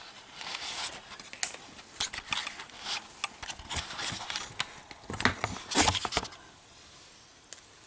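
Irregular clicks, clatter and rustling of plumbing fittings and tools being handled, loudest around five to six seconds in, then dying down to a single click near the end.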